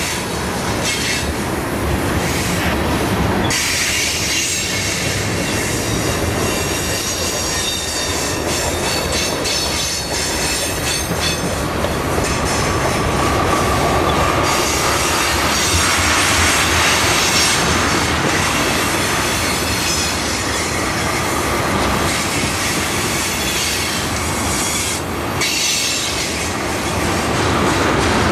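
A freight train's covered hoppers and tank cars rolling past on a curve, with a steady rumble and clatter from the wheels. The wheel flanges squeal against the curved rail in thin high tones.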